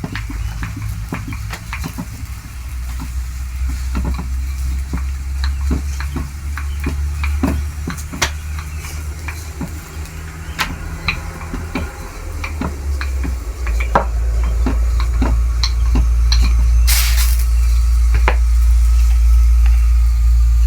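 Chapati frying on a flat pan: sizzling with frequent sharp clicks and scrapes of utensils turning and pressing the bread. A steady low rumble underlies it and grows louder about two-thirds of the way in, with a brief hiss near the end.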